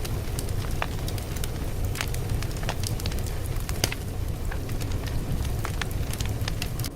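Wood fire crackling, with irregular sharp pops and snaps over a steady low rumble of flames.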